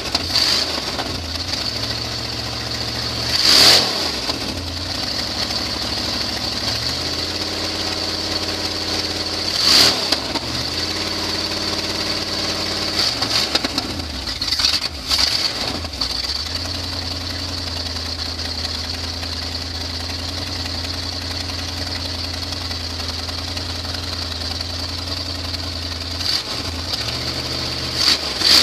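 A 1976 Chevy stepside pickup's engine running through open headers, idling steadily and revved in short bursts about four times.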